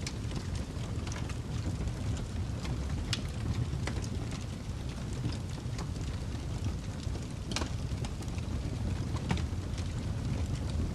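Wood fire burning in a fireplace: a steady low rumble with irregular crackles and sharper pops.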